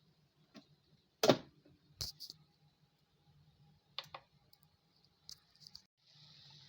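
A series of sharp clicks and knocks from kitchen items being handled, the loudest about a second in, over a low hum. Near the end a faint steady hiss starts.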